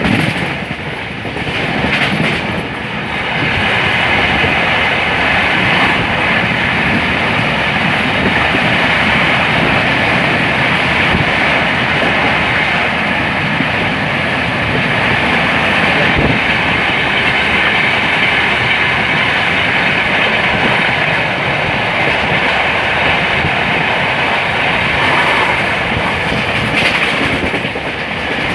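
Passenger train running at speed through a station, heard from on board: a loud, steady rolling noise of wheels on rail.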